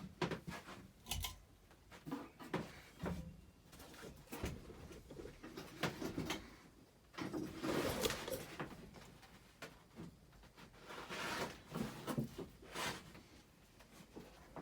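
Irregular knocks, clatters and rustling noises, with no steady fan hum standing out.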